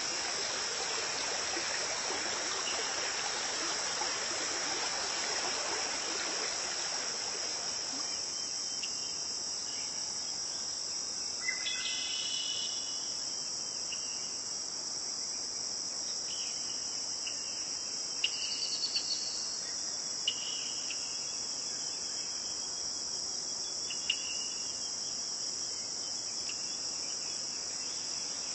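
Steady high-pitched chorus of crickets, with the sound of a running stream fading out in the first third. A few short, higher chirps come over it in the middle and later part.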